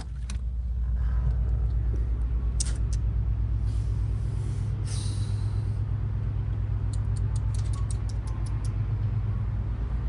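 Low, steady rumble of the river cruise ship's engine or generator machinery, with a fast even throb, growing louder in the first second. A short hiss comes about four seconds in, and a quick run of small clicks near eight seconds.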